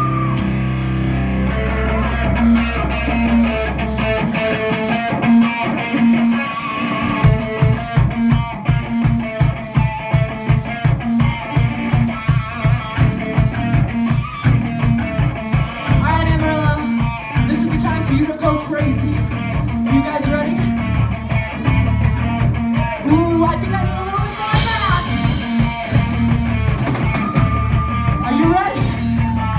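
Metal band playing live: guitars, bass and drum kit. A held low chord for the first few seconds gives way to a fast, even kick-drum beat from about seven seconds in.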